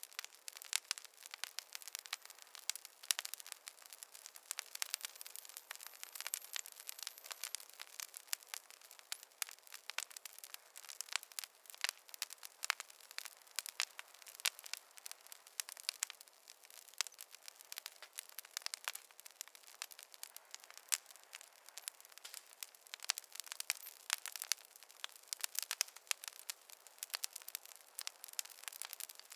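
Campfire crackling, with a steady stream of small sharp pops and snaps.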